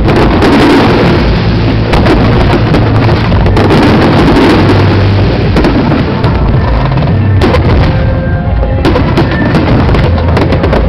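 Fireworks show barrage: a dense, continuous rumble of aerial shell bursts. Sharp individual cracks stand out more in the second half.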